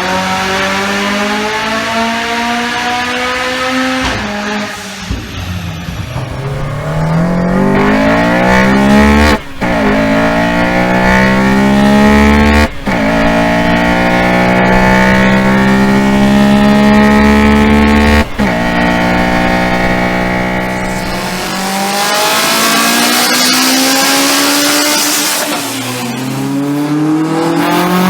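Four-cylinder performance car engine under hard acceleration, its note climbing steadily in several long pulls that break off sharply and start again lower. Near the end the engine note drops back under a hissing noise before climbing again.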